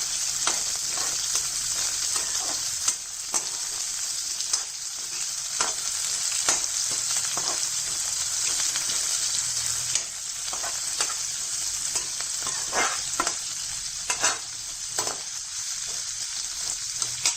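Chopped onion, green chilli and curry leaves sizzling in hot coconut oil in a kadai, a steady frying hiss with frequent sharp clicks and scrapes as a spatula stirs against the pan.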